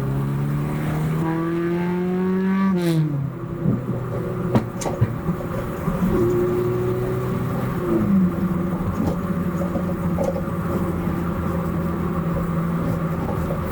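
Nissan SR20VE four-cylinder engine in a 1993 NX2000 under acceleration: the revs climb for about three seconds, then fall sharply, followed by a few sharp cracks. The engine then holds a steady note, drops again about eight seconds in, and settles to a steady lower note.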